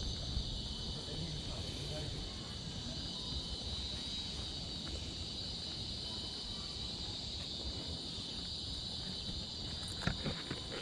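Steady high-pitched chorus of rainforest insects, with a low rumble beneath and a few sharp clicks near the end.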